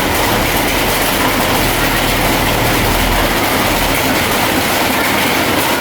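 Crawler bulldozer working: a steady diesel engine hum under the clatter of its steel tracks.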